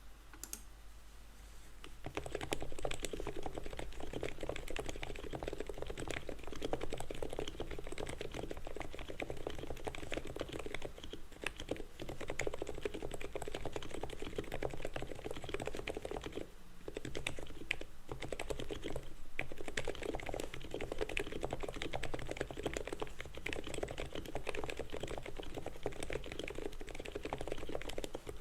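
ABKO HACKER K995P V3 mechanical keyboard being typed on quickly and continuously, a dense run of key clacks that starts about two seconds in and pauses briefly a little past halfway.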